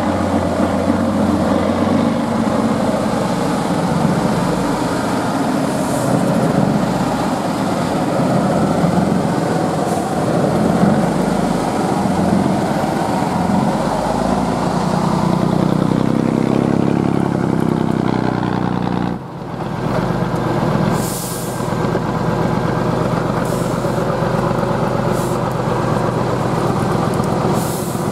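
Heavy truck's diesel engine running and revving under load, its pitch rising and falling, with several short hisses of air brakes being released in the second half.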